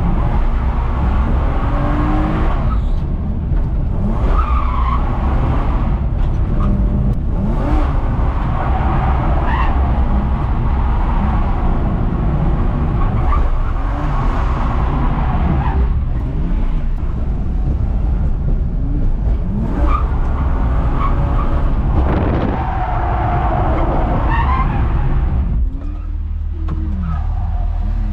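BMW E46 325Ci's 2.5-litre straight-six engine revving up and down repeatedly while the car drifts, with tyres skidding. The engine note drops back briefly near the end.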